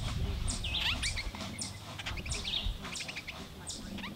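Birds chirping: short, high chirps that fall in pitch, about two or three a second in small clusters, over a low steady rumble.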